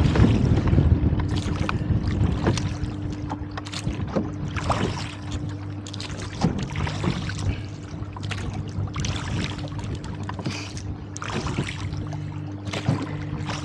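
Rowboat being rowed into gusty wind: oar strokes splash and knock in a steady rhythm, a little under one a second, over wind rumbling on the microphone. The wind is strongest in the first second or two as a gust comes through. A faint steady hum runs underneath.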